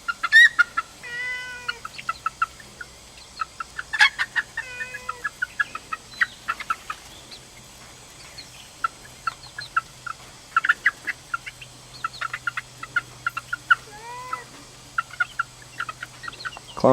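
Young Icelandic chickens clucking in quick short notes, broken by a few longer drawn-out calls about a second in, around four to five seconds in, and near the end.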